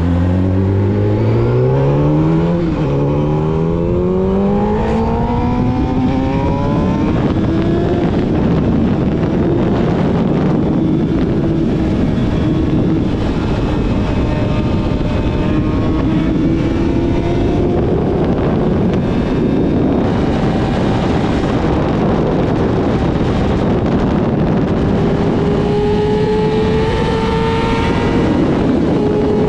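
Yamaha YZF-R6's inline-four with a full-system exhaust accelerating hard, its pitch climbing for about eight seconds with a brief dip at a gear change, then holding a steady high-revving note at speed over rushing wind noise. Near the end the revs climb slowly again.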